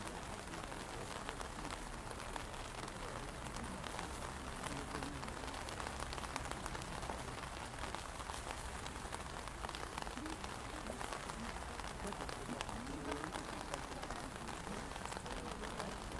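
Steady rain falling on an umbrella held over the phone and on wet pavement: an even hiss full of small drop ticks.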